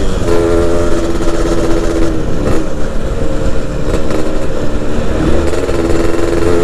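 Yamaha F1ZR's two-stroke single-cylinder engine running at fairly steady revs while being ridden, its pitch shifting slightly, over low wind rumble on the microphone.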